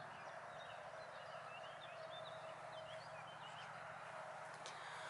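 Faint outdoor birdsong: many short, high chirps from small birds, scattered irregularly, over a faint steady hum.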